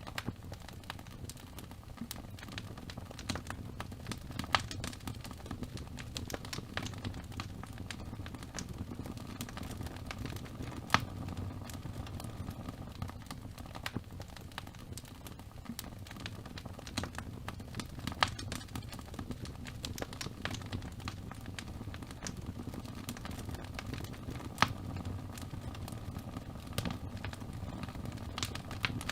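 Wood fire burning in a fireplace: a steady low rumble of flames with constant irregular crackling and a few louder sharp pops.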